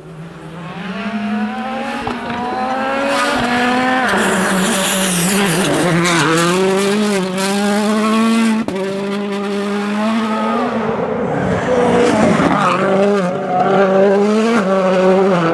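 A 2017 World Rally Car's turbocharged 1.6-litre four-cylinder engine approaching and running hard, growing louder. Its revs climb and then drop sharply at each gear change, about four times.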